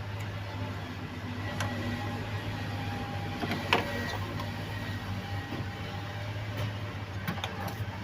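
Light clicks and knocks of engine parts being handled, one sharper knock a little before halfway, over a steady low hum.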